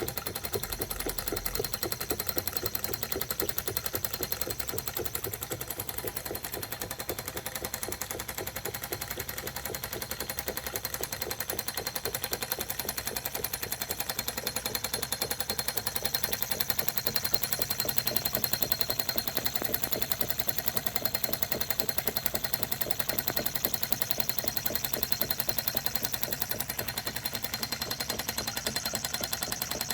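Empire B30 toy steam engine running steadily with a rapid, even chuffing and clatter, driving an Empire B35 water pump. The engine is electrically heated.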